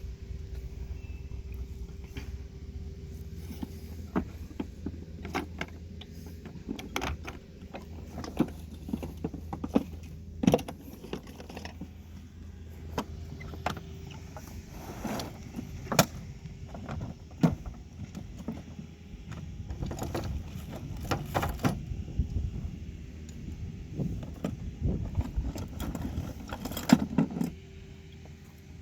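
Repeated sharp metallic clinks and knocks, like fittings and tools being handled, over a steady low engine hum.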